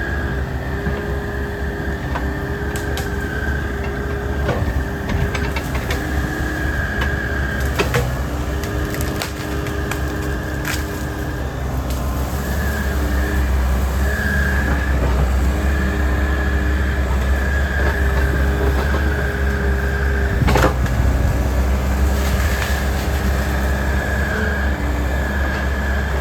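Takeuchi excavator's diesel engine running with a steady whine while wood cracks and splinters as trees are pushed over and crushed. There are scattered sharp cracks, the loudest about twenty seconds in.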